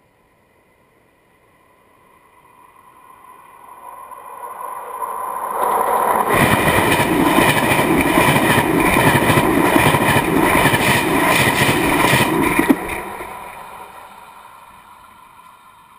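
A passenger train hauled by class 350 electric locomotive 350.005 passes right over the camera at speed between the rails. It grows louder for about five seconds while a steady high tone builds, then comes a loud rush of wheels on rails with rapid clattering for about six seconds. This stops suddenly with a final knock as the last car clears, and the sound fades away.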